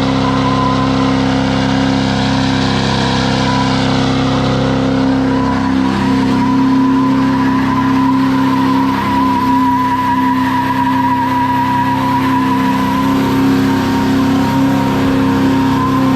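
Diesel truck doing a burnout: the engine is held at high, steady revs while the tyres squeal, the squeal growing stronger about four seconds in.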